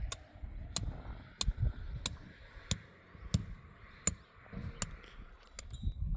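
Sharp clicks or taps repeated nine times in an even rhythm, about one every two-thirds of a second, over a low rumble.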